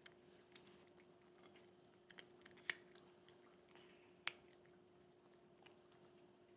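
Faint chewing and crunching, likely a cat eating, with two sharper clicks a little under three seconds in and again about four seconds in, over a steady low hum.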